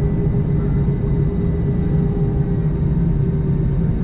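Steady cabin rumble and hum inside an Airbus A321 on the ground, a constant low roar with a few steady droning tones and no changes.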